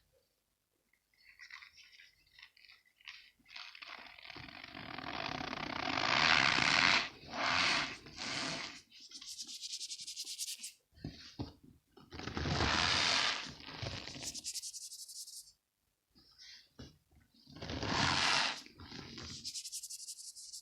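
Packed cornstarch balls squeezed and crumbled by hand, giving squeaky crunching in repeated bursts of about a second each, with short pauses between.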